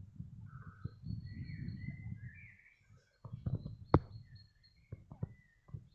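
Small birds chirping and calling, with rustling and crunching from footsteps through undergrowth and a few sharp clicks, the loudest about two-thirds of the way through.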